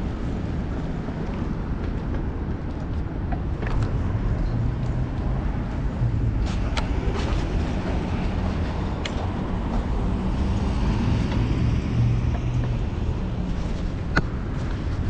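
City street traffic and wind noise picked up by a chest-mounted action camera on a moving bicycle, with a low engine hum from nearby vehicles and a few sharp clicks.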